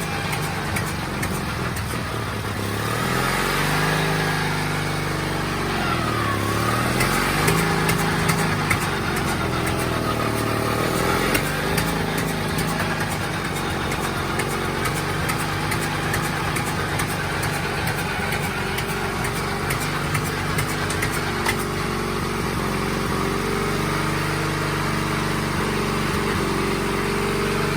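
The engine of a 1940 Caterpillar D4 7J dozer running steadily, its speed sagging and picking back up twice, about three and six seconds in.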